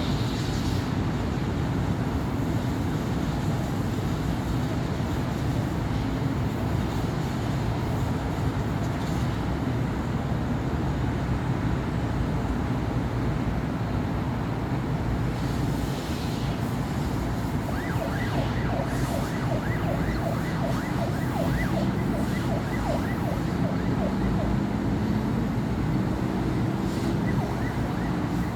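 Steady city street traffic noise from cars and buses. Past the middle, a faint, rapidly pulsing emergency-vehicle siren comes in, and a vehicle engine's note rises as it pulls away near the end.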